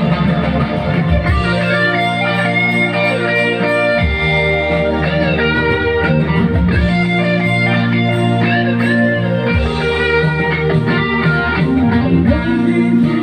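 Electric guitar playing a melody of held notes over music with a steady low bass part.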